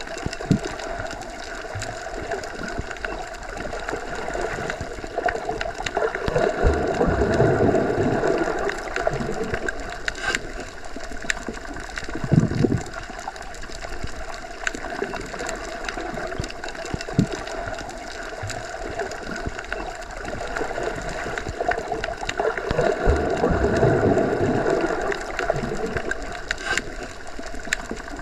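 Underwater ambience as heard while submerged: a steady, muffled rush of water that swells and fades twice, roughly fifteen seconds apart, with a soft low thump about halfway through.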